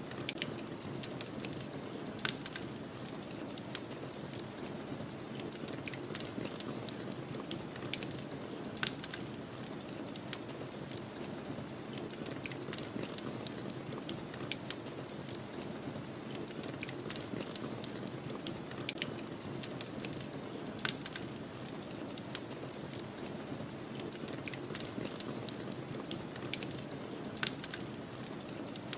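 Wood fire crackling, with sharp irregular pops and snaps, over a steady low rush of snowstorm wind.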